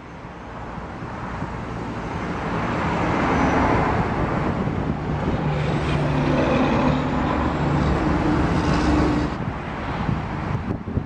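A road vehicle going by: tyre and engine noise swells over the first few seconds, holds, then falls away about nine seconds in.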